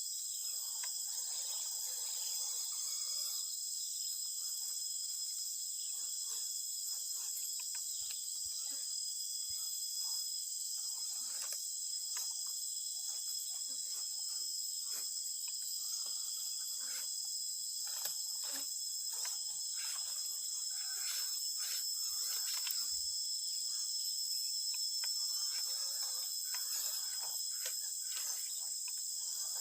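Steady, high-pitched chorus of insects chirring without a break, with faint scattered clicks and rustles beneath it.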